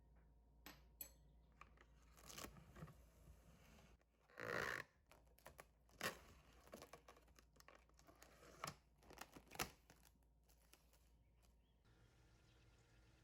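Quiet, scattered rustles and clicks, with one short louder rustle about four and a half seconds in and a few sharp clicks after it.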